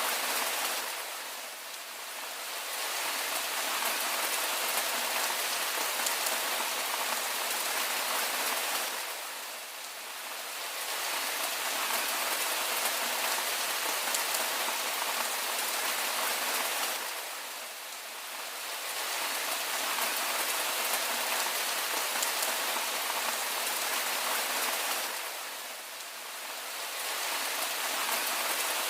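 Steady rain falling on a surface, an even hiss with no thunder, its level dipping briefly and smoothly about every eight seconds.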